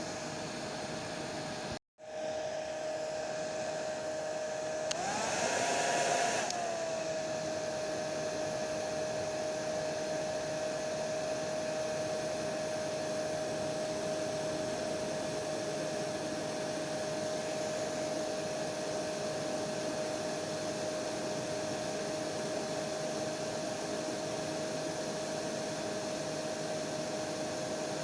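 Hair dryer (blow dryer) running steadily: a rushing airflow with a steady motor whine. About two seconds in the sound cuts out for a split second. A few seconds later it briefly grows louder and the whine rises slightly before settling back.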